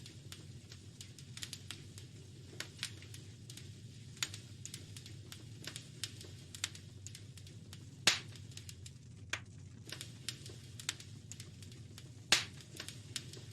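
Wood fire crackling, with scattered irregular snaps and two louder pops about 8 and 12 seconds in, over a low steady rumble.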